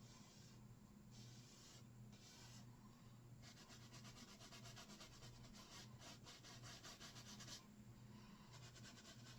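Faint scratchy strokes of a paintbrush on canvas: a few separate strokes at first, then a quicker run of short strokes from about three and a half seconds in.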